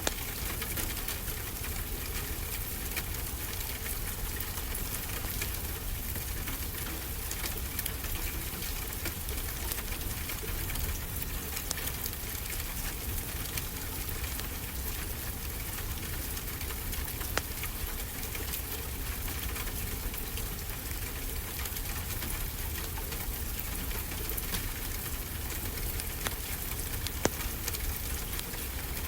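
Steady rain falling together with a wood fire crackling in a fireplace, its small snaps scattered through the rain and a couple of louder pops.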